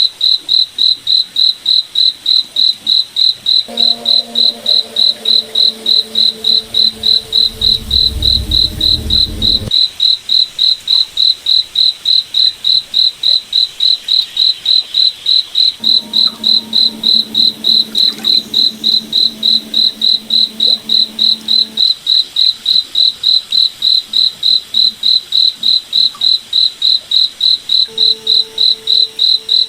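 Cricket chirping in a steady, even pulse, about three chirps a second. A lower, steady hum fades in and out three times, lasting several seconds each time, with a brief deeper rumble under the first one.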